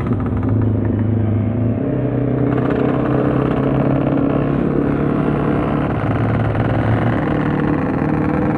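Motorcycle engine and exhaust running at a steady pace while riding, a constant low drone whose pitch dips slightly about seven seconds in.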